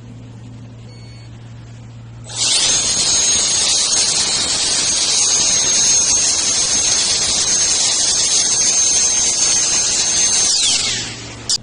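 Handheld brushless turbo jet blower switched on. It spins up in a fraction of a second to a high steady whine over a loud rush of air, runs for about eight seconds, then spins down with a falling whine, followed by a short click.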